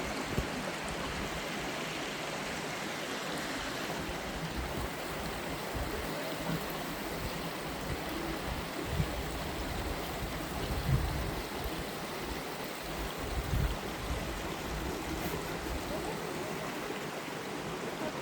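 Waterfall rushing steadily as water pours down the falls, with a few short low thumps.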